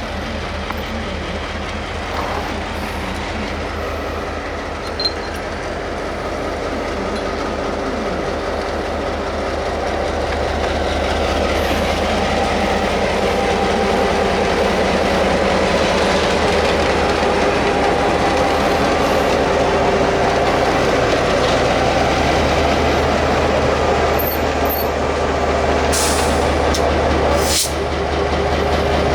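Railway locomotive moving slowly along the track, its steady running sound with a low hum growing louder over the first half. A couple of short sharp sounds come near the end.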